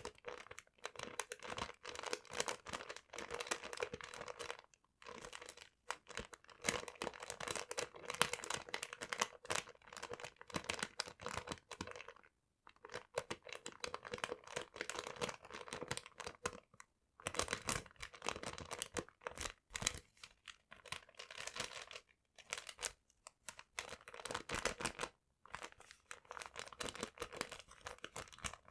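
Paper being crumpled and crinkled close to the microphone: dense crackling in bursts with short pauses in between.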